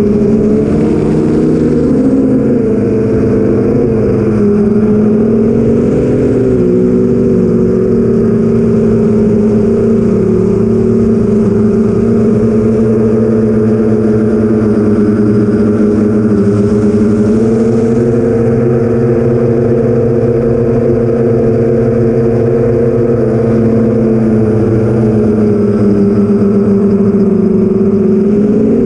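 The four brushless motors and 8-inch props of an iFlight XL8 FPV drone humming steadily in flight, the pitch drifting slightly up and down with throttle.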